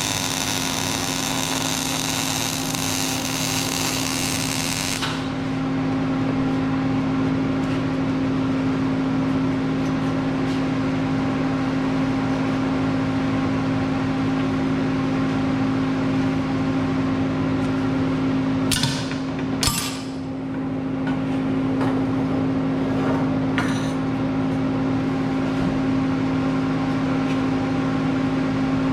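Steady electrical machine hum with a couple of pitched tones throughout. A hissing burst over the first five seconds cuts off abruptly, and a few sharp clicks or knocks come about two-thirds of the way in.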